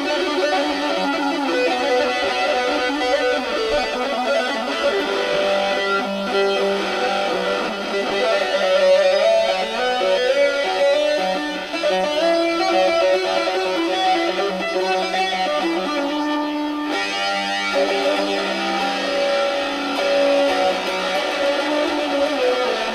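Saz, a long-necked plucked lute, played in a heavy-metal style: a continuous stream of fast plucked melodic runs and strummed notes.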